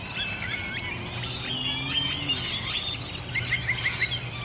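A large flock of starlings and grackles gathered to roost in trees, a dense chorus of overlapping squeaks, whistles and sliding calls. A low steady hum starts about a second in underneath the birds.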